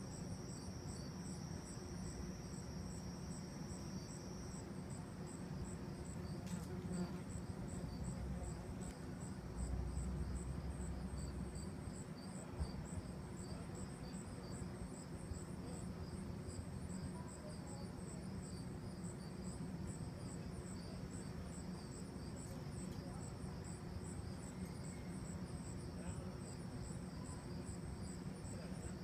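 Crickets chirping: an even run of high chirps, a few each second, over a low rumble.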